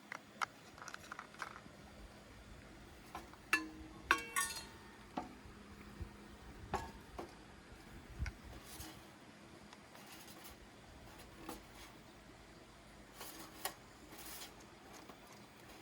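Tableware being handled: scattered light clinks and knocks of dishes, cutlery and glass, with a couple of brief ringing clinks about four seconds in.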